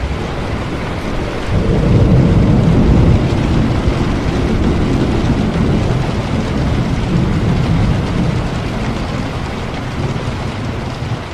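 Steady rain with a long rolling rumble of thunder that swells about two seconds in and slowly dies away.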